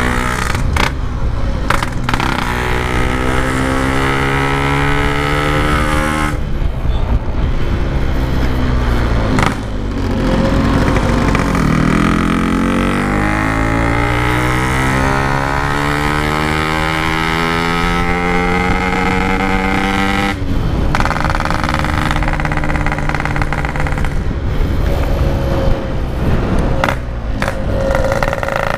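Yamaha RX-King two-stroke single-cylinder motorcycle under way through a Packing Power standard-style exhaust. The engine note climbs in pitch through the revs, drops off briefly at each gear change and climbs again, with one longer run where the revs fall and pick back up near the middle.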